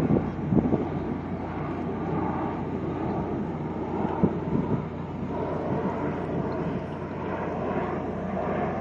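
A P-3 patrol aircraft's four turboprop engines make a steady drone as it flies past.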